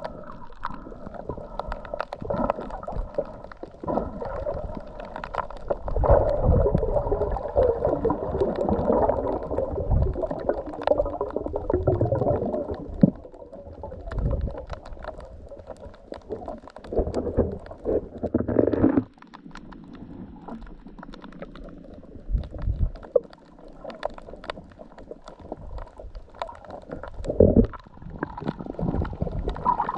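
Muffled water gurgling and sloshing around a camera in the sea, with irregular low rumbles and knocks. The sound drops off suddenly about nineteen seconds in and builds up again near the end.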